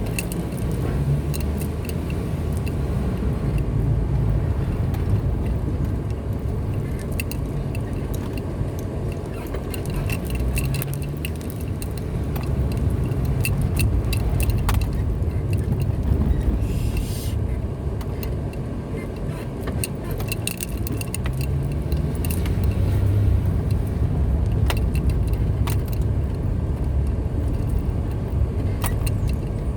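Car driving, its engine and road noise heard as a steady low rumble from inside the cabin, with the engine pitch rising twice as it picks up speed. Frequent small clicks and rattles sound over it.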